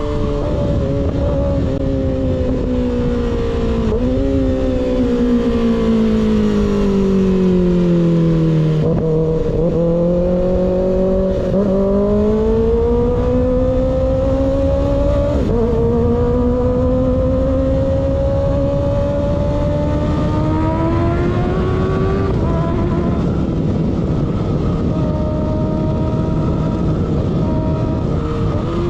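A sport motorcycle engine with an unbaffled slip-on exhaust, heard while riding. It winds down for several seconds with a short rev blip partway through, then pulls with a slow, steady rise in revs. Near the end it drops back and holds a steady cruise, over constant wind rush.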